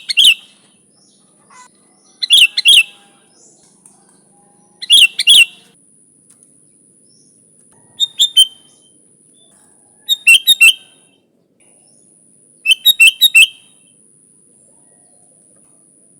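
Sooty-headed bulbul (kutilang) singing: short phrases of a few quick notes, repeated about every two to three seconds, six phrases in all.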